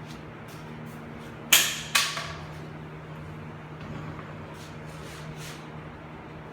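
Two sharp metallic clanks about half a second apart, each ringing briefly, followed by a few faint clicks, over a steady low hum.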